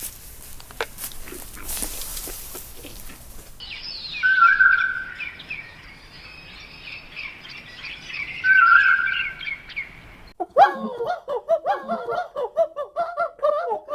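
Small birds chirping steadily, with two louder short whistled calls about four and eight seconds in; a noisy rustle comes before the chirping, and a quick run of short, lower pitched calls follows it near the end.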